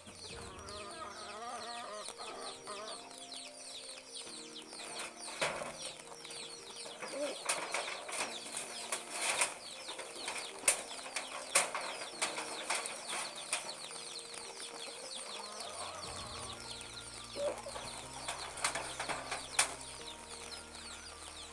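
Chickens clucking, with several sharp knocks and clatters of bamboo slats being handled as a bamboo coop roof is taken apart.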